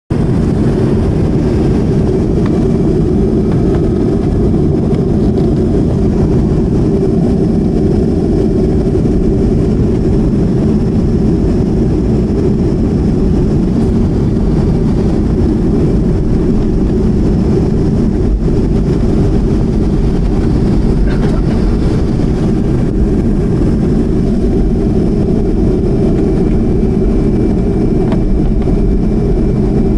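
Boeing 737-200's Pratt & Whitney JT8D jet engines running, a loud, steady low rumble with faint high whines above it and no change in level.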